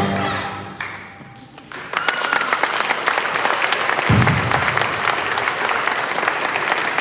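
Children's singing and instruments end a song, and after a short pause a school-concert audience breaks into sustained applause about two seconds in, with a low thump a couple of seconds later.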